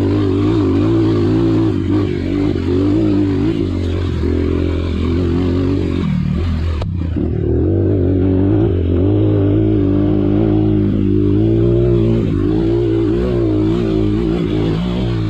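Trail motorcycle engine running under throttle over rough ground, its pitch rising and falling as the throttle is worked.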